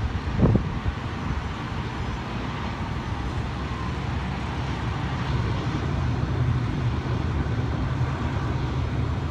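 Steady rushing drone of a jet airliner's engines, growing slightly louder, mixed with wind buffeting the phone's microphone; a single wind thump on the microphone about half a second in.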